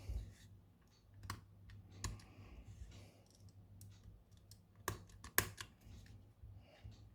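Small clicks and taps of hand tools and parts being handled at a phone-repair bench: a few sharp ticks with light handling noise between them, the loudest about five seconds in, over a low steady hum.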